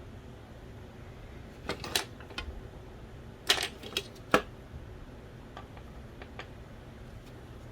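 Irregular sharp clicks and taps of small parts of an original Xbox's Philips DVD drive being handled during disassembly, loudest in a group of three or four about three and a half to four and a half seconds in, over a steady low hiss.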